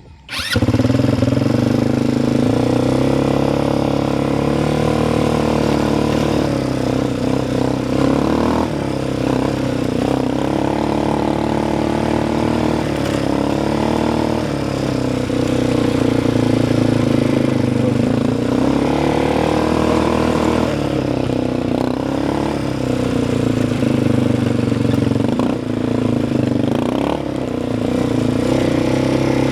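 Quad bike engine running while being ridden, its pitch rising and falling several times as the throttle opens and closes.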